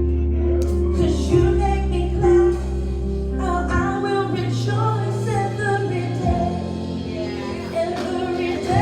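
Worship song played live: a woman singing the lead over a band, with long held bass notes that change every second or two.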